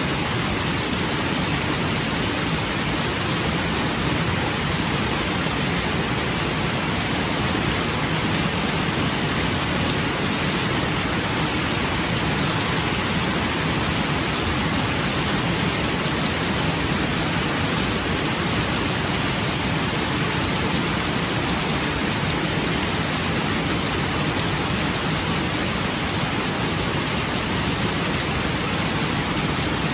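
Steady rain falling: an even, unbroken hiss with no distinct drops or thunder standing out.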